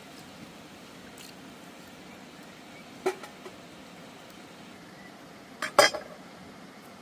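Cookware and utensils clinking: a single knock about three seconds in, then a louder quick cluster of clinks near the end, over a steady low background hiss.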